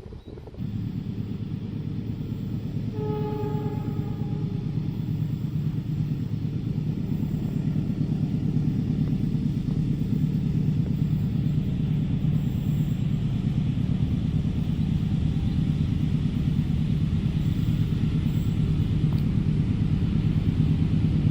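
Passenger train running past, a steady rumble of locomotive and carriages, with one short horn toot about three seconds in.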